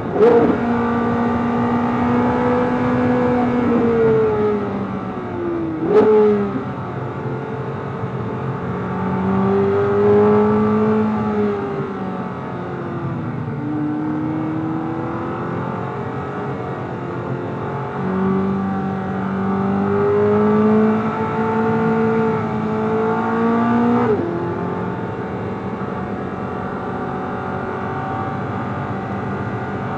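C8 Corvette Z06's 5.5-litre flat-plane-crank V8 at full track pace. The revs hold steady, fall away under braking with a downshift about six seconds in, then climb again under acceleration until an upshift about 24 seconds in. Each gear change is marked by a short sharp click.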